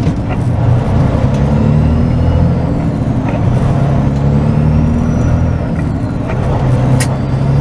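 Semi truck's diesel engine pulling away from a standstill in low gear, with brief dips as it shifts. A sharp click about seven seconds in.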